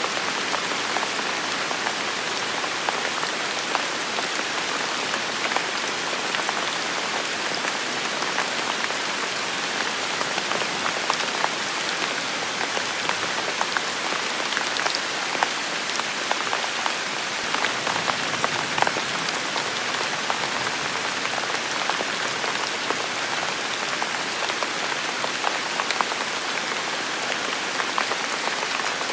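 Heavy rain falling steadily, a dense hiss with many close drops pattering.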